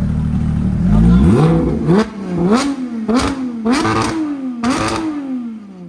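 High-performance car engine being revved hard in repeated throttle blips. It runs steady for about a second, then climbs sharply in pitch and falls back about five times, with a crackle at each peak. Very loud, ear-splitting.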